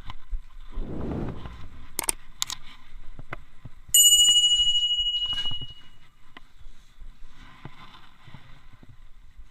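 A single bright bell ding about four seconds in, ringing out and fading over about two seconds, among scattered clicks and handling noise.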